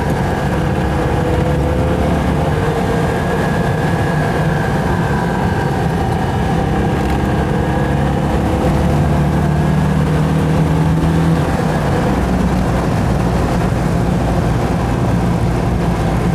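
Citroën 2CV's air-cooled flat-twin engine, rebuilt with 652 cc big-bore pistons, running steadily on the road with its note drifting gently up and down, heard from inside the cabin over tyre and wind noise.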